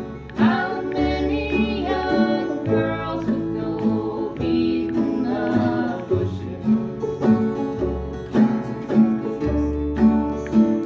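A folk band playing live: a strummed acoustic guitar keeps a steady beat under a bass line, with a voice singing the melody.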